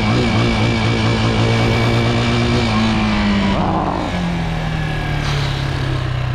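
Chinese 250 dirt bike engine running, its revs falling away from about three seconds in and settling at a lower, steady pitch.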